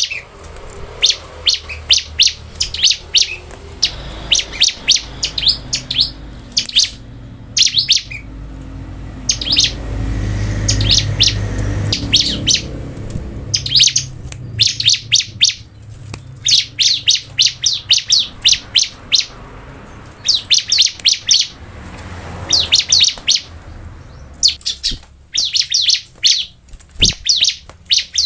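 Bar-winged prinia (ciblek) singing: rapid runs of sharp, high chirping notes in repeated phrases about a second long, separated by short pauses. A low rumble swells briefly midway.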